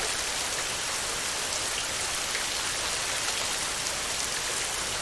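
Heavy rain falling steadily on a tin roof: a dense, even patter, with single drops now and then standing out.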